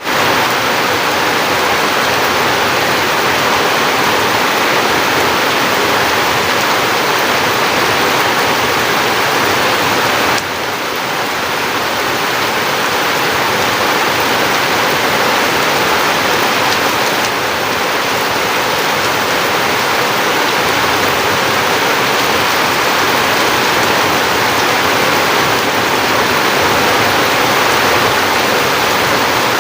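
Heavy rain pouring down, a loud, dense, steady hiss; the level drops a little suddenly about ten seconds in.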